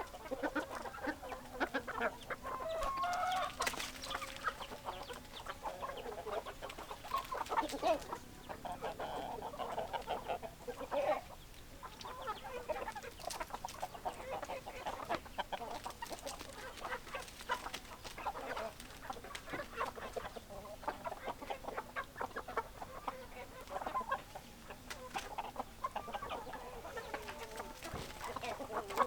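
A flock of domestic chickens: hens clucking and squawking over one another, with a rooster crowing in places.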